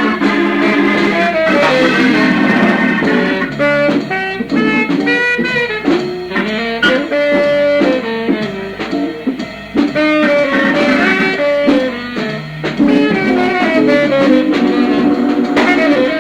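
Jazz combo of organ, electric guitar, saxophone and drums playing a ballad, with guitar melody runs over sustained organ chords, from a 1970 live reel-to-reel tape recording.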